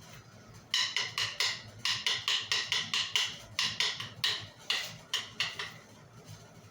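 Wooden sticks struck together, a run of about fifteen sharp, hollow clacks in quick uneven groups that starts under a second in and stops about a second before the end.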